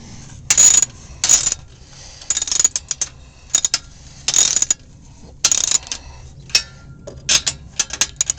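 Hand ratchet with a deep socket clicking in about ten short bursts of strokes as it tightens the nuts on a U-bolt muffler clamp around an exhaust pipe.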